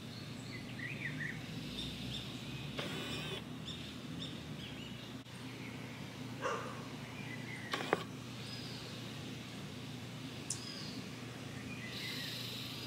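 Birds chirping and calling intermittently in short high notes over a steady low background hum, with a sharp click about eight seconds in.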